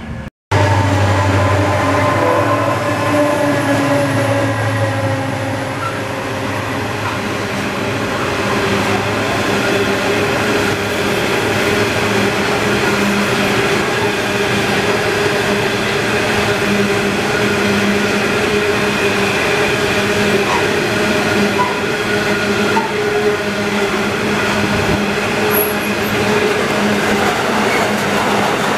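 Wagons of a Southern Short Haul Railroad grain train rolling past close by: a loud, steady rumble of steel wheels on rail with several steady humming tones, cutting in abruptly about half a second in.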